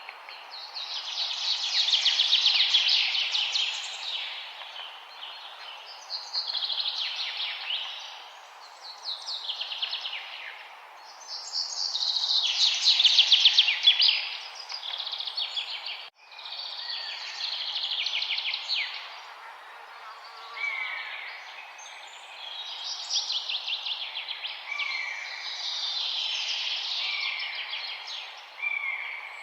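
A songbird singing repeated rapid, trilled phrases, each two to three seconds long and falling in pitch, with short pauses between them, over a steady background hiss. About halfway through, the sound briefly cuts out.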